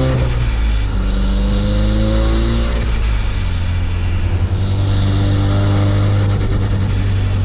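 Mazdaspeed 3's turbocharged 2.3-litre four-cylinder engine accelerating hard. The revs climb, drop at a gear change about three seconds in, then climb again.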